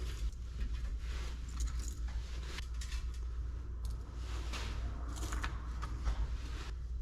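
Small scrap metal parts being handled while a control panel is stripped: light clinks, taps and scrapes at irregular moments, over a steady low hum.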